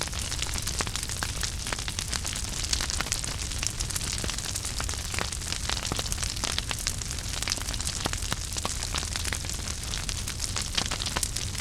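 Wood fire in a fireplace burning steadily, with a continuous hiss and low rumble and frequent irregular crackles and pops.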